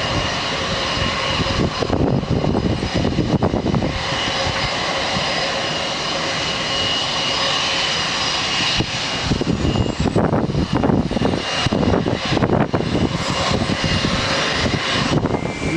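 Jet airliner's turbofan engines passing close by: a loud, steady rumble carrying a high, even whine.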